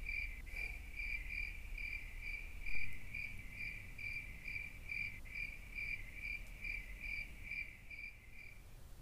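A cricket chirping in a steady, even rhythm of about two and a half high-pitched chirps a second, stopping near the end.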